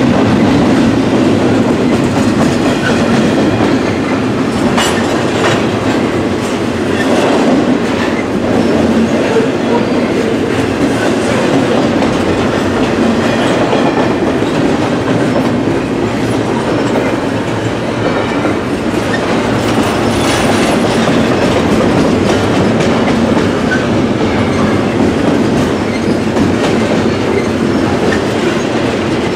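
A train rolling steadily past at close range, its cars' wheels clacking over the rail joints, the running noise loud and continuous throughout.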